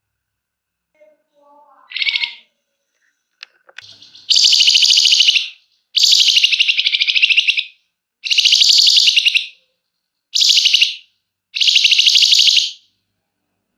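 Flamboyan bird singing long, rapid, rattling trills in the 'ngebren' style. A few soft notes and a short call come first, then five loud trill bursts of about one to one and a half seconds each, separated by short pauses.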